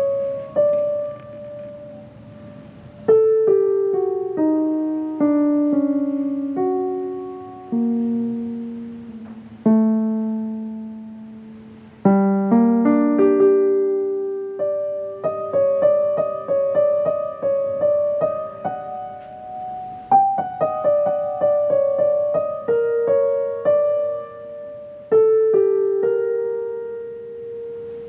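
Solo piano playing a slow melody, each note struck and left to fade. Early on the line steps downward in widely spaced notes; from about halfway, quicker repeated notes come in over held lower notes.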